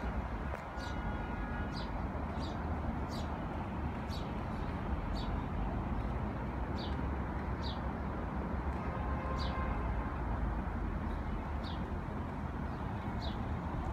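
A bird repeating short, high, downward-slurred chirps at irregular intervals, over a steady low background rumble.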